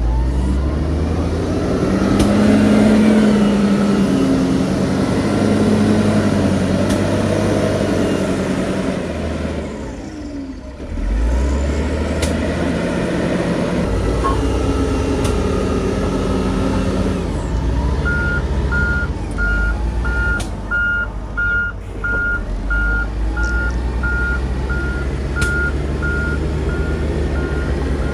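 Heavy diesel earthmoving machinery running hard, its engine note rising and falling. About two-thirds of the way through, a reversing alarm starts beeping steadily, a little under two beeps a second.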